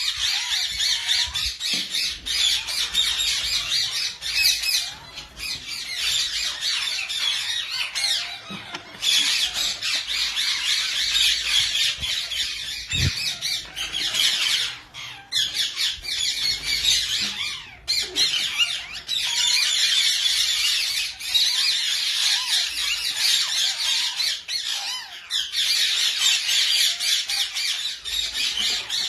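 Indian ringneck parakeets squawking in a constant, raspy, rapid chatter, dropping out briefly every few seconds.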